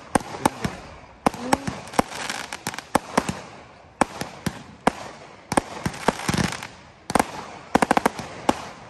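Fireworks display: aerial shells bursting in a string of sharp bangs at irregular intervals, several trailed by a crackling hiss. Near the end comes a quick run of about six bangs.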